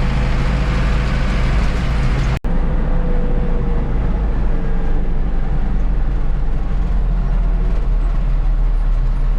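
Tractor engine running steadily under way on the road, a constant low drone, with the sound cutting out for an instant about two and a half seconds in.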